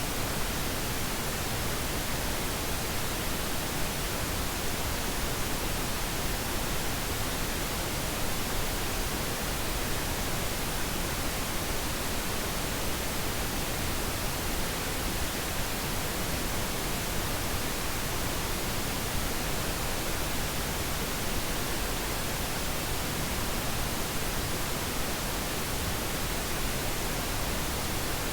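Steady pink noise: an even, unchanging hiss spread across all pitches, with no tones or breaks.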